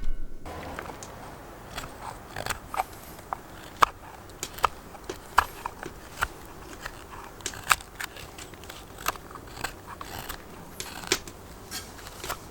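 Knife carving hornbeam wood: a string of short, sharp cutting strokes, uneven in spacing, about one or two a second.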